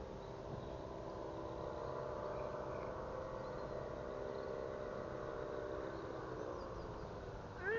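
A steady droning hum of several pitches that fades away about two-thirds of the way through. Right at the end a cat starts a loud meow, its pitch rising and then falling.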